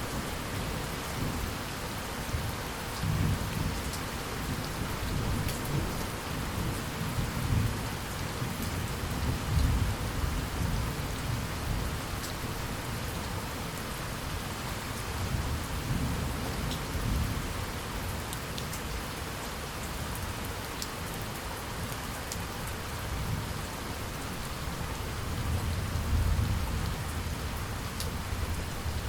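Steady heavy rain falling on surfaces, with distinct drops ticking, under low rolling thunder that swells in several slow waves.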